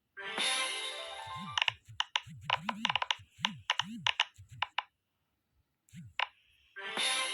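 Silicone pop-it fidget toy having its bubbles pressed: a run of soft pops and sharp clicks, about eight low thuds in quick succession in the middle. A ringing, chime-like musical sound plays at the start and starts again near the end.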